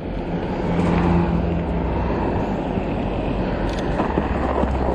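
Fat-tire e-bike riding over a snowy, uneven sidewalk: a steady rumble of the tyres with wind noise on the microphone and a faint hum in the first half.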